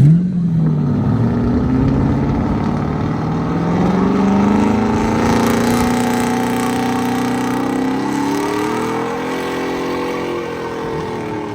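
A vehicle engine accelerating hard: it starts suddenly, climbs slowly and steadily in pitch for several seconds, then eases off near the end.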